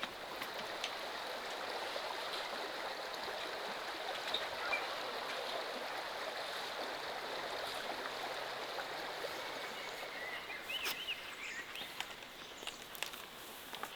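Water flowing in a stream, a steady rushing hiss that eases off after about ten seconds. A few short bird chirps come near the end.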